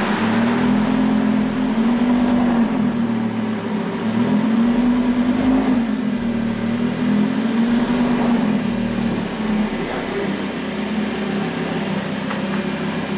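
Lamborghini engine idling, its low idle note wavering gently up and down every couple of seconds.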